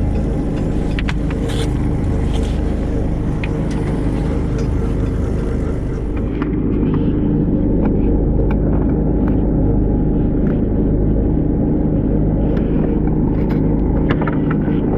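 Fishing boat's engine running steadily, a constant low hum, with scattered light clicks.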